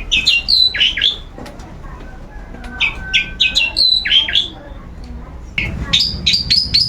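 Long-tailed shrike (cendet) singing in bursts of harsh, quickly sliding chattering notes, then, from a little over five seconds in, a fast run of repeated notes at about five a second.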